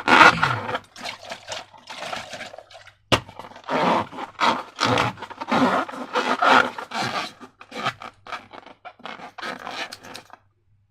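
Slime being worked and scraped in a container: irregular wet squishing and scraping strokes, with a single sharp click about three seconds in. The sound stops shortly before the end.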